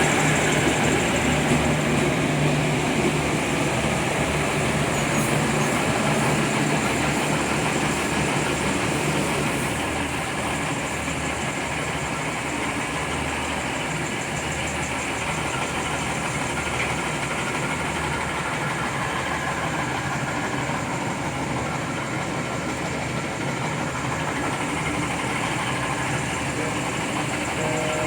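Train engine idling: a steady low rumble that eases slightly about ten seconds in.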